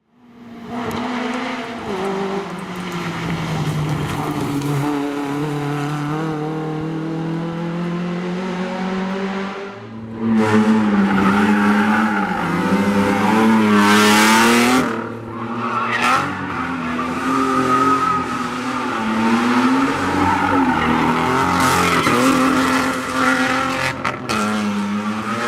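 Rally car engine revving hard, its pitch climbing and falling with each gear change, with a loud rushing noise burst about halfway through.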